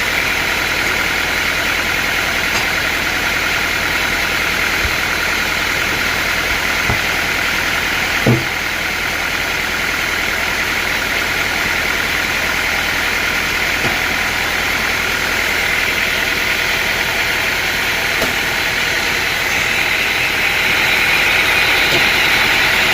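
Sawmill machinery running, a steady engine-driven drone with no breaks, with one short knock about eight seconds in.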